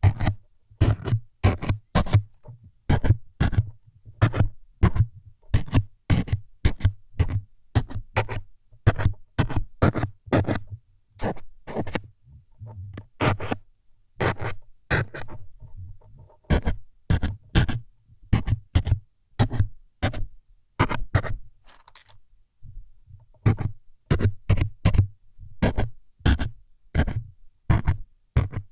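ASMR needle-stabbing sounds: short, sharp scraping strokes close to the microphone, about two a second, with a brief pause about three-quarters of the way through.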